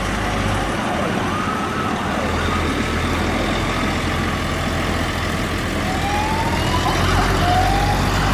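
Sirens sounding in rising sweeps over the steady low rumble of heavy truck engines passing by, getting a little louder towards the end.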